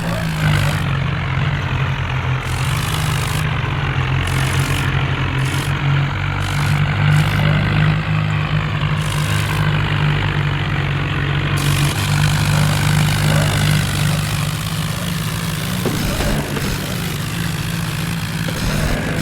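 Heavy tractor diesel engine running steadily at a constant pitch.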